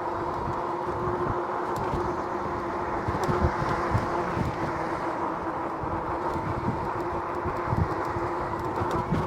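Lectric XP e-bike's hub motor giving a steady whine while riding at a constant speed, with wind buffeting and tyre rumble from the bumpy pavement.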